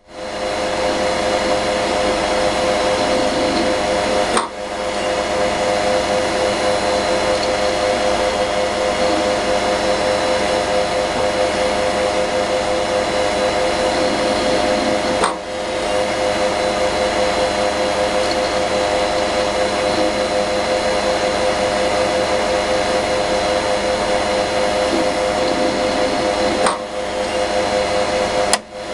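Failing Maxtor hard disk drive running with a steady mechanical whir and hum, broken about every eleven seconds by a short drop and a click: the clicking of a crashed drive whose heads have failed.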